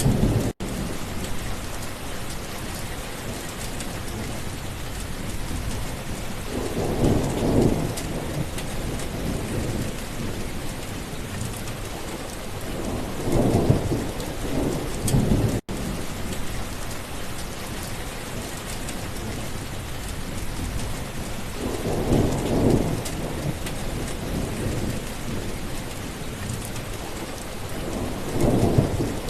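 Steady heavy rain with four low rolls of thunder swelling up and dying away, several seconds apart. The sound cuts out for an instant twice.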